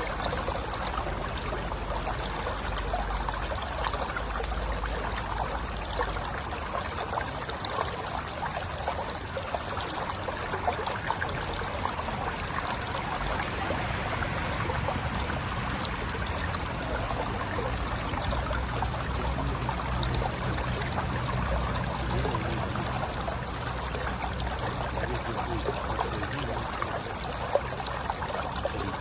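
Mountain river flowing over rocks: a steady rush of water with gurgling.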